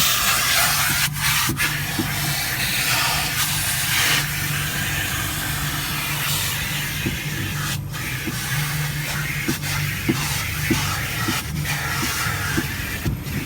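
Car wash machinery with steady rushing air and a low hum that comes and goes, with scattered short scrapes and knocks.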